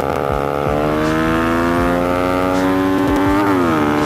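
Motorcycle engine accelerating hard in a race pull, its pitch climbing steadily, then dropping abruptly at an upshift about three and a half seconds in before it climbs again in the next gear.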